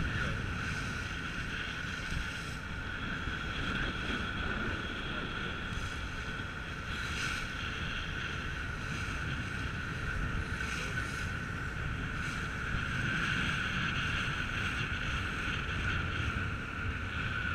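Car ferry under way: a steady drone of its engines with a constant high hum, mixed with the rush of water past the hull and some wind on the microphone.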